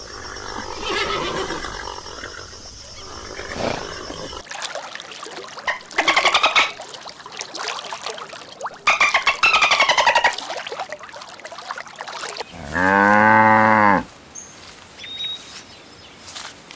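A run of farm animal calls, one after another: two loud, high, wavering calls about three seconds apart, then a lower call about a second long near the end, like a cow's moo.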